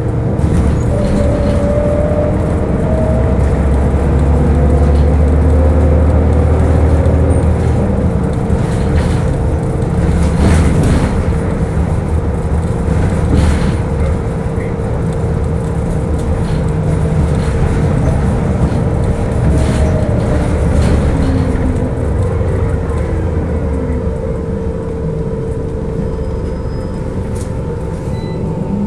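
Scania L94UB bus running under way, its engine rumbling low with the whine of its ZF automatic gearbox, a steady tone joined by whines that glide up and down in pitch as the bus speeds up and slows.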